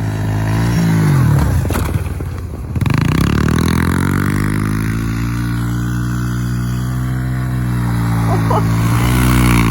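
Small single-cylinder four-stroke pit-bike engine running hard under throttle. It backs off about a second in, picks up again around three seconds, and then holds steady at high revs.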